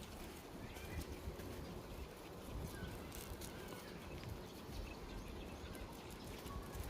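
Small birds chirping faintly in short calls over a low steady rumble and scattered light clicks.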